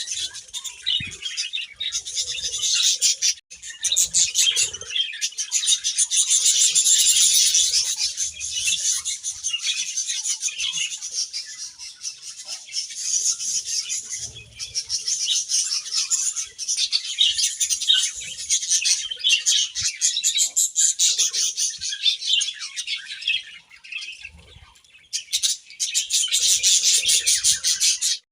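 A colony of budgerigars chattering and chirping continuously, many rapid overlapping calls, with a short lull near the end.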